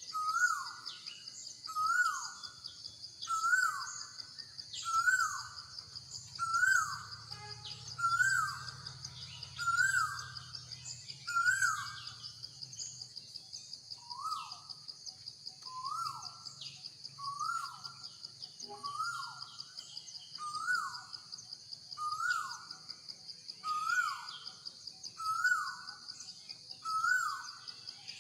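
A bird calling over and over, a short note that rises then falls, about once every one and a half seconds with a brief pause in the middle, over a steady high drone of insects.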